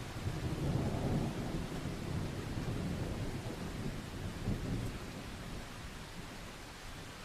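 Distant thunder rolling over steady rain: a low rumble swells near the start, is loudest in the first few seconds, and fades away toward the end, while the rain's hiss carries on throughout.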